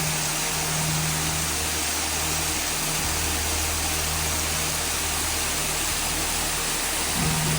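Waterfall rushing: a steady, even roar of falling water, with a low steady hum underneath that drops out briefly a few times.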